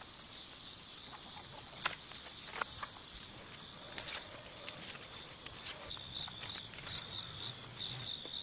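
Insects chirping: a steady high buzz throughout, joined about six seconds in by a pulsed chirp repeating a few times a second, over scattered clicks and rustles.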